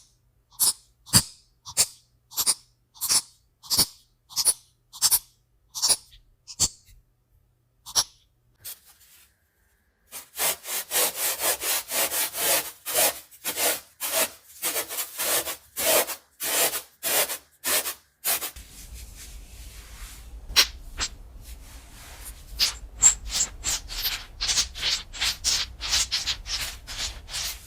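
Repeated short scraping strokes in three runs: evenly spaced strokes about two a second, a brief silence, a fast dense run, then more strokes over a low steady hum.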